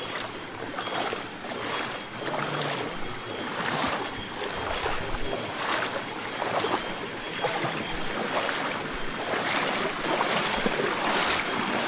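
Water splashing and sloshing as someone wades through a shallow creek, with surges about once a second, over the wash of moving stream water.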